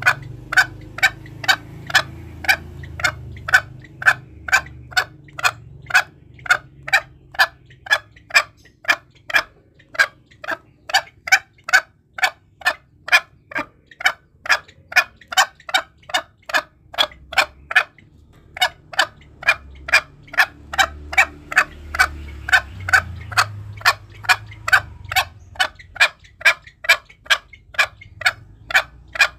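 Green junglefowl calling: a steady series of short, sharp clucks, about three a second, broken by two brief pauses. It is a lure call for drawing wild junglefowl in when hunting.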